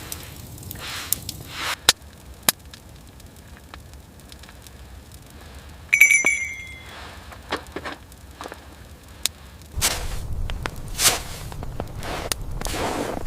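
Wood fire crackling with scattered sharp pops, a single ringing metallic clink about halfway through, then rustling and scraping handling sounds near the end.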